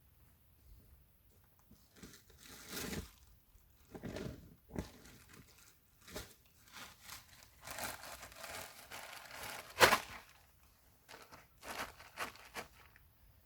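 Irregular rustling and crinkling as gear is handled, with a single sharp click a little under ten seconds in.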